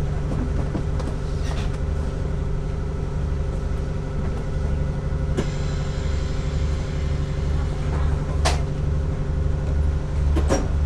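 Passenger train under way heard from inside the carriage: a steady low rumble and hum with a low throb pulsing about one and a half times a second, and a few sharp clicks.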